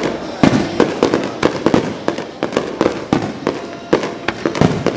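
Fireworks display: aerial shells bursting in a rapid string of sharp bangs, several a second, each with a short echoing tail.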